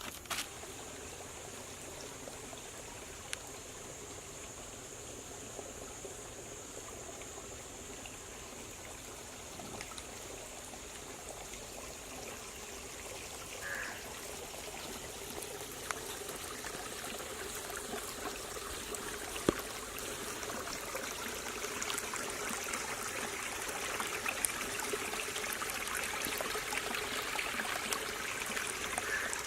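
Chicken frying in hot oil in a pan, a steady sizzle full of small crackles that grows louder toward the end.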